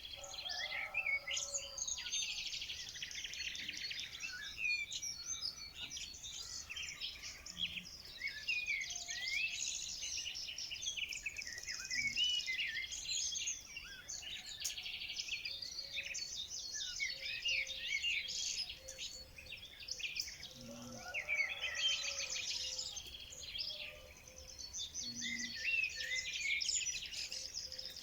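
Many small songbirds chirping and singing at once, a dense continuous chorus of quick, high, overlapping chirps and trills.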